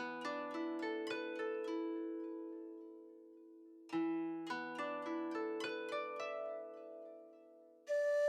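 Background music: two rising arpeggios of plucked, harp-like notes, each left to ring and fade away. A held, wavering tone enters just before the end.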